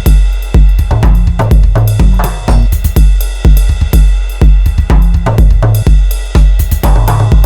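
Electronic drum-machine beat, finger-drummed, with a deep kick about twice a second, hi-hats, snare and cymbals over a pitched synth bass line.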